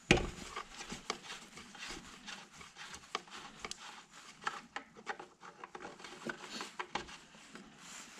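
Handling noises from working on a concrete saw: one loud knock right at the start, then scattered small clicks, taps and rubbing of metal and plastic parts.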